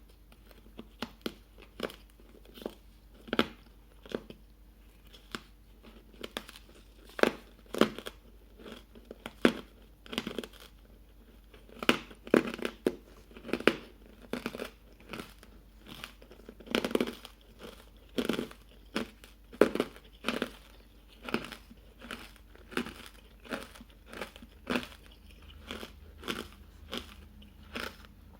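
Close-up crunching and chewing of hard ice cubes coated in matcha powder, with irregular sharp crunches of about one or two a second.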